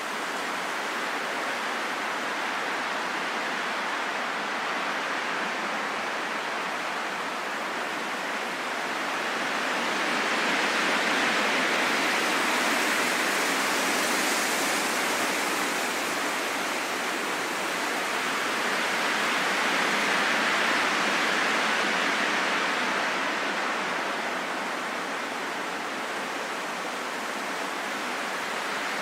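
Steady rushing wind, an even hiss with almost no low rumble, swelling louder twice in the middle as gusts.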